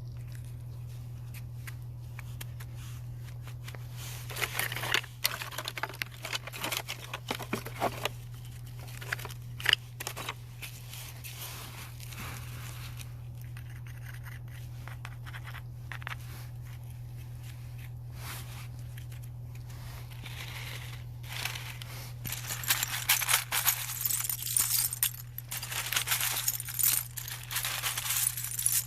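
Bursts of crinkling and clicking from objects being handled close to the microphone, over a steady low hum; the handling comes in two spells with a quieter stretch between them.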